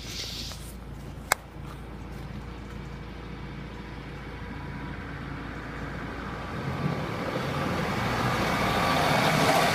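Class 153 single-car diesel multiple unit running over the level crossing, its engine and wheel noise growing steadily louder in the second half. A single sharp click sounds about a second in.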